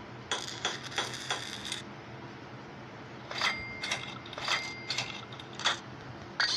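Metal tools or parts clinking and clicking in two clusters of quick strikes, a few of them leaving a short ringing note.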